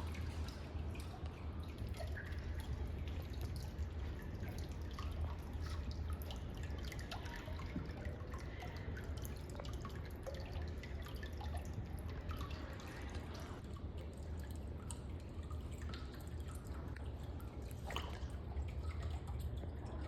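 Water dripping and trickling steadily over a low, constant hum.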